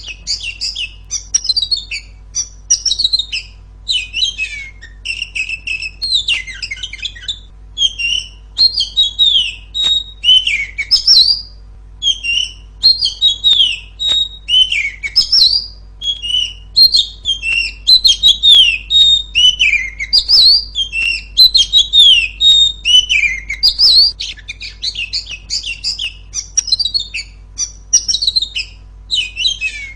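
Female oriental magpie-robin singing loudly: quick phrases of high chirps and whistled glides, one short burst after another with brief gaps.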